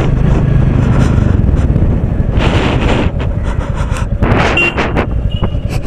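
Royal Enfield Bullet motorcycle engine running steadily on the road with a low, pulsing thump, with two rushes of passing road noise midway.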